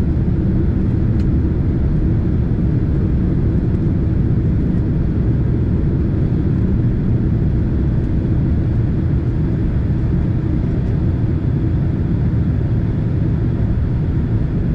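Cabin noise of a Boeing 767 airliner: a steady, even low rumble, strongest in the bass, holding level throughout.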